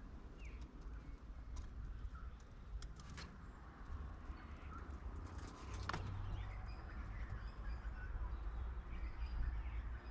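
Wild birds calling faintly in short chirps, with scattered sharp clicks and taps, the loudest about six seconds in, over a steady low rumble.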